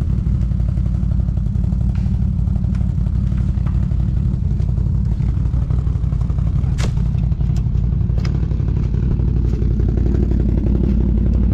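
ATV engine running steadily at low revs, with a few sharp knocks and clatter, and revs rising a little near the end.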